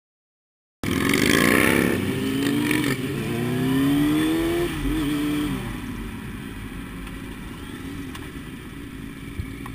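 A motorcycle engine starts sounding about a second in and revs, its pitch climbing over about four seconds. It then drops back and runs on more quietly and steadily.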